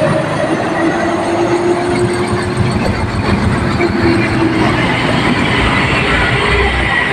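Heavy truck engine labouring as the truck crawls up a steep incline: a loud, steady mechanical drone with a faint whine that grows stronger near the end.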